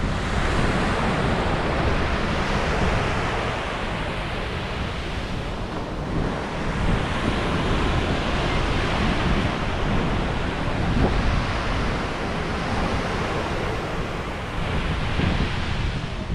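Sea waves washing onto a shore, the surf swelling and easing in three broad surges, with wind rumbling on the microphone.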